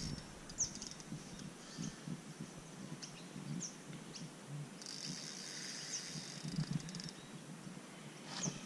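Faint bird calls: a few short, high, falling chirps spread apart, with a steady high buzz for about two seconds just past the middle.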